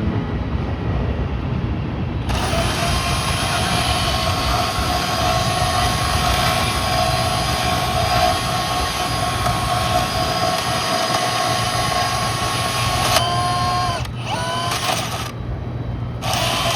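Chicago elevated 'L' train going by: a loud rushing noise with steady whining tones. About 13 seconds in the whines drop in pitch and break off, then the noise picks up again near the end.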